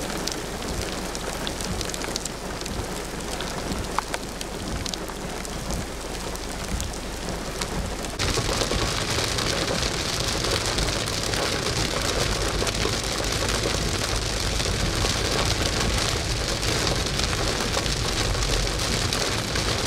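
Heavy rain pelting an asphalt road, with single drops ticking. About eight seconds in it changes to louder heavy rain drumming on a car's windscreen and body, heard from inside the moving car, with a steady low rumble of the car beneath it.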